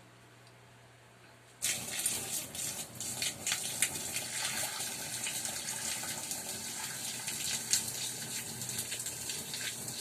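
Boiling water poured onto drain-cleaner powder in a clogged bathroom floor drain, starting suddenly about one and a half seconds in and splashing steadily, with crackling spatters through it.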